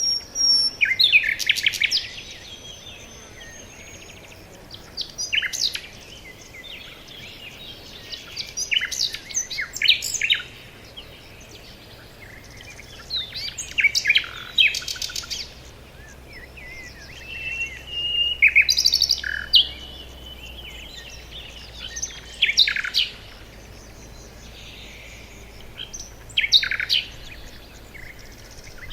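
Forest songbirds singing: a short phrase of quick chirps and trills every few seconds, with now and then a held whistle, over a faint steady low hum.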